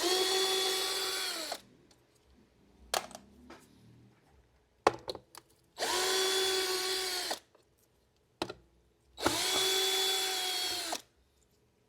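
Cordless electric screwdriver running in three short bursts, backing screws out of a robot vacuum's plastic housing. Each burst is a steady whine that drops in pitch as it stops, with sharp clicks between bursts.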